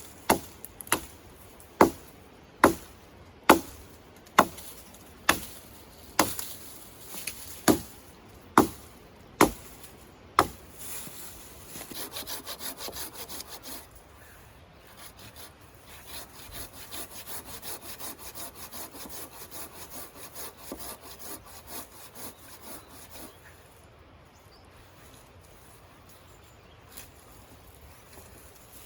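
About a dozen sharp blows on wood, roughly one a second, followed by a hand saw cutting through wood in quick, even strokes.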